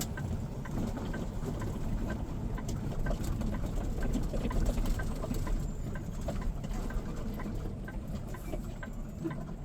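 Semi-truck engine and road noise as a steady low rumble inside the cab, with light, irregular clicks and rattles scattered throughout.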